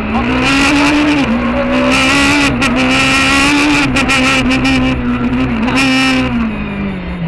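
Peugeot 306 Maxi rally car's 2.0-litre four-cylinder engine heard from inside the cockpit, running hard at high revs. Its pitch dips briefly and recovers several times, with a few sharp clicks along the way, then falls lower near the end.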